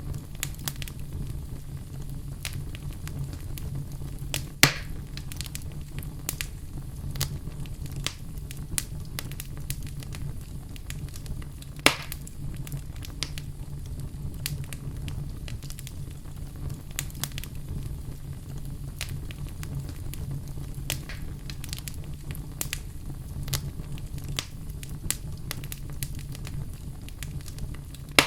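Fire burning in a fireplace, crackling with frequent small snaps over a low steady rumble. There are two louder pops, about four and twelve seconds in.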